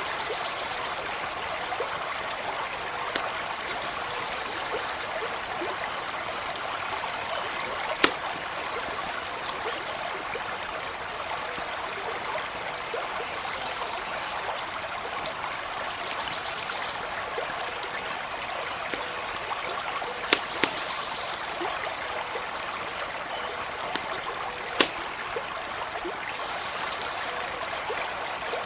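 Steady running stream, with a wood campfire crackling over it and a few sharp pops from the fire, the loudest about eight seconds in and two close together about twenty seconds in.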